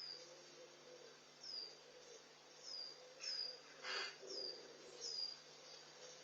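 A small bird calling repeatedly with short, high, thin notes that slide downward, about one every half second to second. About four seconds in there is one brief knock.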